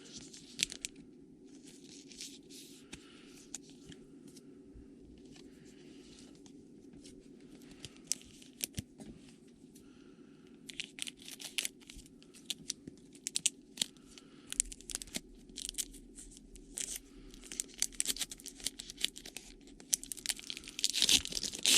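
Trading-card pack wrapper and cards being handled, with scattered crinkles and small clicks that grow busier in the second half. It ends in a louder stretch of crinkling and tearing as a pack is torn open. A steady low hum runs underneath.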